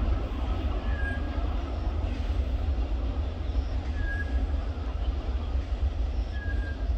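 Steady low rumble of a long train of open freight wagons rolling away on the rails.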